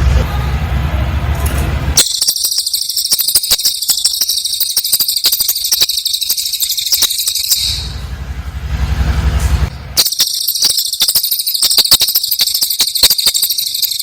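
Cililin bird singing in rapid, very high-pitched chattering bursts: about two seconds in, a burst of about six seconds, then after a pause of about two seconds a second burst of about four seconds. During the pauses a low hum is heard.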